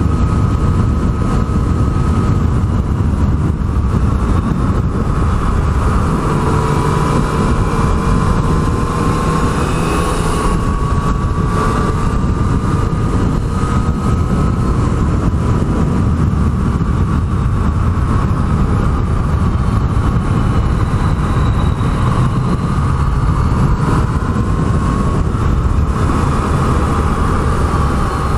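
Yamaha MT-09's inline-three engine running steadily under way, its pitch slowly rising and falling with the throttle, over a steady rush of wind noise.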